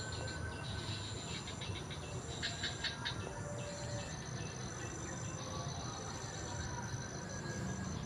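Insects trilling in a high, steady tone that comes in pulses of about a second, with a brief run of quick bird chirps a few seconds in, over a low steady rumble.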